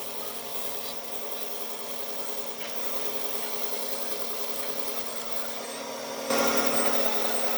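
A power tool running steadily on wood with a constant hum and rubbing noise, growing suddenly louder about six seconds in as it bites harder into the wood.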